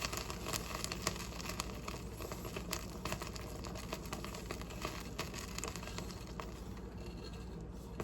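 Sugar and water being stirred in a pot: a steady soft scraping with many small light clicks.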